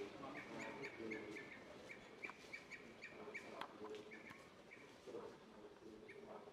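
Faint, short bird chirps repeated a few times a second, in a quiet wooded setting.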